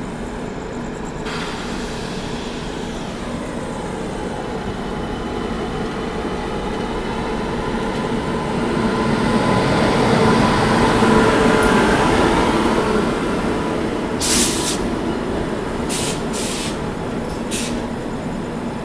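Train running on rails, a steady rumble that swells louder through the middle. Near the end come a few short, high hissing bursts.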